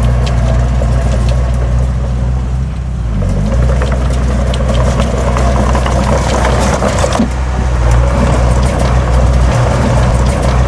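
Heavy diesel engine of earthmoving machinery running steadily under load, with scattered metallic clanks and rattles over it. The engine note dips briefly about three seconds in, then picks up again.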